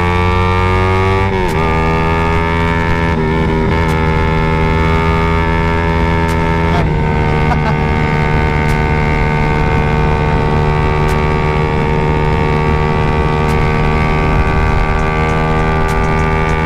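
Suzuki Raider 150 Fi's single-cylinder four-stroke engine running through an aftermarket CHA exhaust pipe, held at a steady raised speed. Its pitch rises a little at first, shifts slightly about a second and a half in and again about seven seconds in, then holds steady, with no popping from the exhaust.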